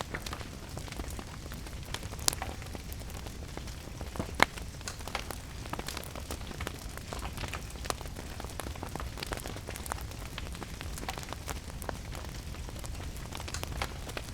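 Wood fire crackling in a fireplace, with many small clicks and a few sharper pops about two and four seconds in, over a steady hiss of rain.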